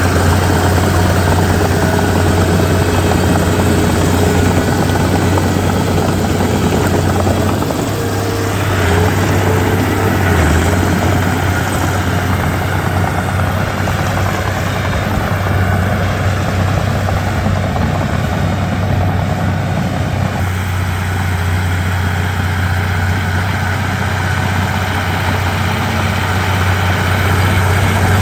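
Komatsu D31P bulldozer's diesel engine running steadily with a deep, even drone, easing slightly about eight seconds in.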